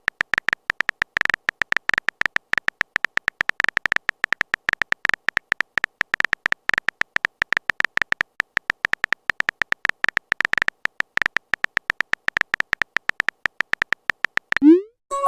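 Phone-keyboard typing sound effect: a fast, irregular run of short clicky beeps. Near the end a rising swoop and a chime sound as a message is sent.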